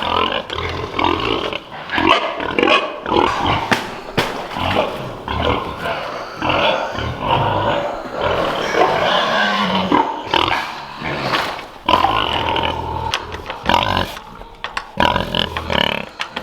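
Pigs grunting in a rapid, irregular string of short calls.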